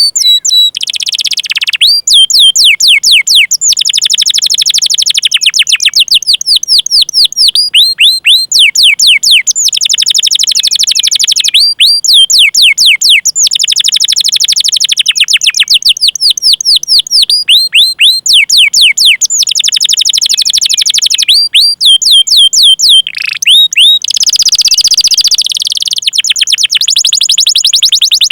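Canary singing loudly in long rolling phrases: fast runs of high whistled notes, each sweeping downward, repeated many times a second, with short breaks between phrases and a buzzier, denser roll about 24 seconds in.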